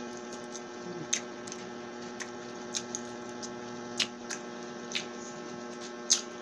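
Close-miked eating sounds of a woman chewing saucy chicken adobo: about seven scattered wet mouth clicks and smacks, over a steady electrical hum.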